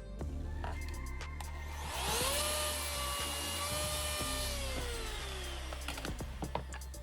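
Electric router motor spinning up about two seconds in, running at a steady high whine for a couple of seconds, then switched off and winding down in a falling pitch. Background music plays throughout.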